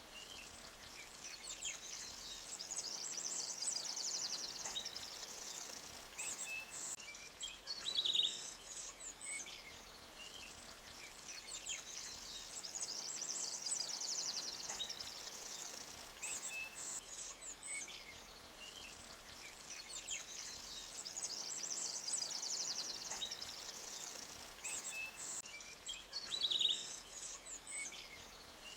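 Forest birds chirping and trilling over the soft, steady hiss of a creek running between rocks. The same run of bird calls comes back about every nine seconds, as in a looped ambience track.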